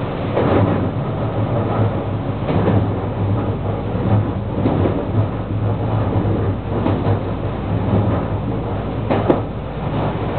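JR West 223 series 2500 electric train running, heard from inside the front car: a steady low hum with wheels clattering over rail joints every couple of seconds. A sharp click comes about nine seconds in.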